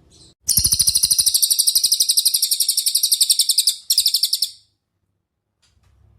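Cililin songbird singing a fast, even trill of repeated high notes, about a dozen a second, for roughly three seconds. A short burst of the same trill follows, then a few faint chips.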